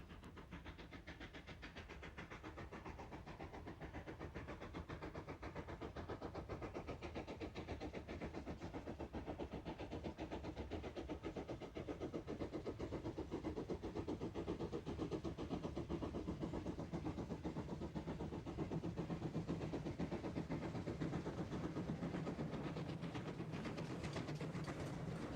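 Steam locomotive running, its exhaust beating in a fast, even rhythm that slowly grows louder.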